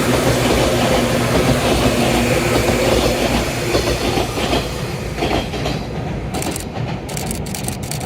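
JR 185 series electric train running on the rails, wheels clattering over the track, with a steady humming tone that dies away about three seconds in. The rumble eases a little after about five seconds.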